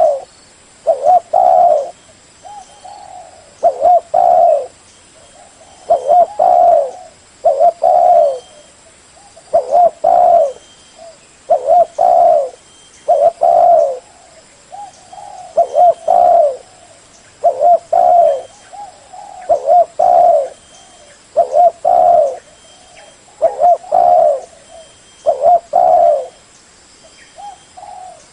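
Spotted dove cooing: a low phrase of two or three coos, repeated steadily about every two seconds.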